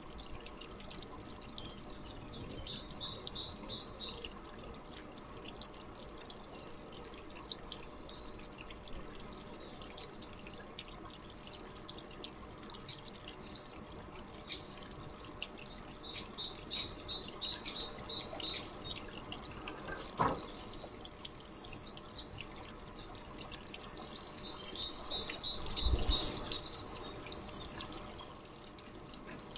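Garden birds chirping, with a loud run of fast repeated high notes near the end, over a steady hiss. A sharp click sounds about two-thirds of the way in, and a low thump follows near the end.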